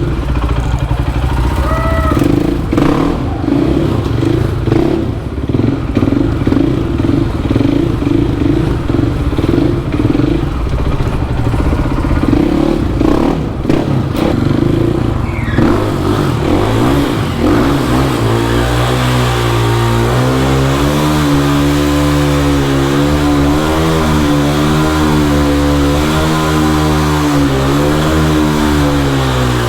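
Supermoto motorcycle engines running and revving unevenly for the first half. From about two-thirds of the way in, one bike idles steadily and close by, its pitch wavering slightly.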